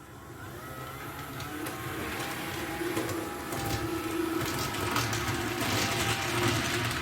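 HO-scale model train running toward the microphone, its motor and wheels on the track growing steadily louder, with a steady hum and whine.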